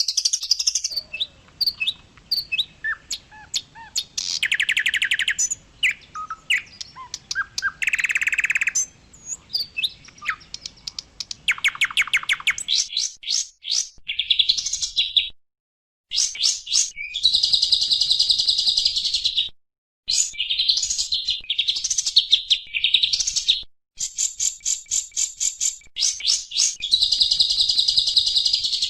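White-eye (pleci) singing: rapid high chirps, fast trills and buzzy warbling phrases. The song is edited, with sudden cuts to silence and the same phrase repeated, as in a looped tutoring recording.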